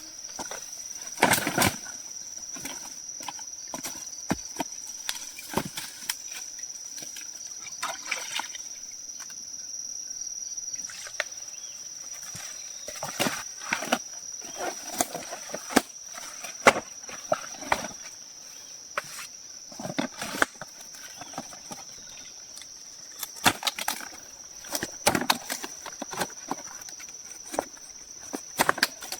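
A steady, high-pitched drone of insects, with irregular sharp clicks and knocks scattered through it.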